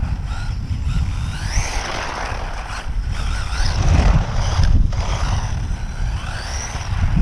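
WLtoys short course RC truck's electric motor whining as the truck speeds up, rising in pitch three times, over a heavy low rumble.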